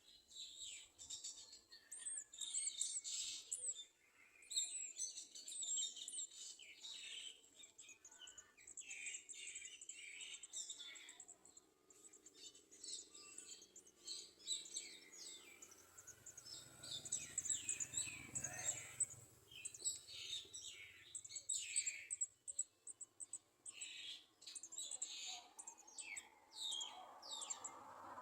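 Garden sunbirds chirping: a near-continuous run of short, high-pitched chirps and twitters.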